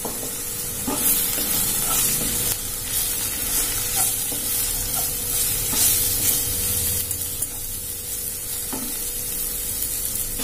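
Onion-tomato masala with freshly added ground spices sizzling in a nonstick pan while a wooden spatula stirs and scrapes it. The stirring strokes are heaviest from about a second in until about seven seconds, then ease to a steadier sizzle.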